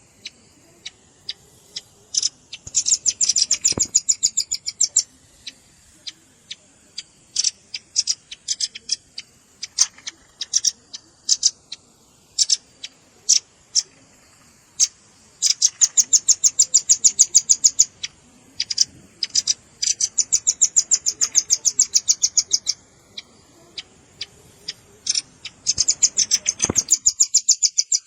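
Velvet-fronted nuthatch calls played as a bird-catching lure: fast trills of sharp, high chips, each run lasting about two to three seconds, separated by scattered single chips.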